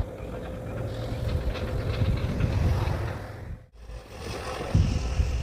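Low mechanical rumble of heavy machinery with some clatter, cut off abruptly a little over halfway through and then resuming.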